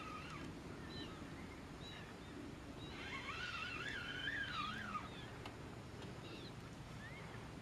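A songbird singing faintly in warbling phrases of wavering pitch, the longest lasting about two seconds from near the middle, with short snatches before and after, over a low steady background.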